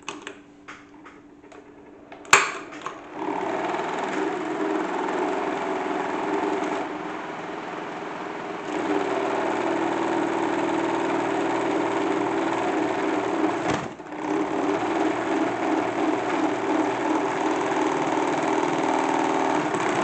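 A few button clicks and a sharp click, then a small toy washing machine's electric motor starts and runs with a steady whirr, its tone shifting a couple of times and dipping briefly near the end.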